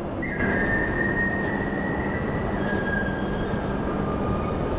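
Shinkansen train running noise on a station platform: a steady rumble with a high whine that steps down in pitch a couple of times.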